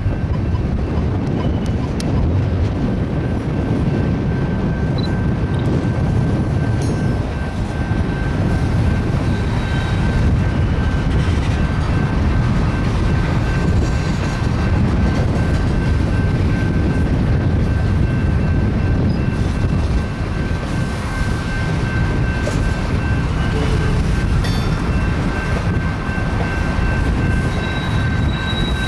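Freight train cars (covered hoppers, then gondolas) rolling past on the track: a steady low rumble of steel wheels on rail, with a thin, steady high-pitched ring and a few faint clanks.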